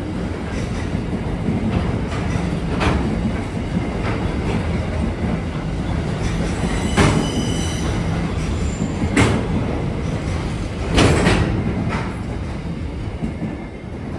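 Container wagons of a freight train rolling past: a steady rumble of wheels on rail, broken by sharp clunks every couple of seconds and a brief high wheel squeal about halfway through. The rumble fades near the end as the last wagon goes by.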